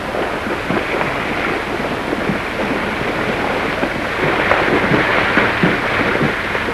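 Horse hooves walking in slowly, irregular dull knocks that grow louder over the second half, under the heavy steady hiss of an old optical film soundtrack.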